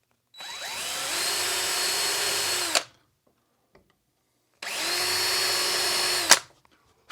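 Power drill run twice, each run about two seconds, speeding up as it starts and winding down as it stops, boring the small pupil holes into the eyes of a poplar carving.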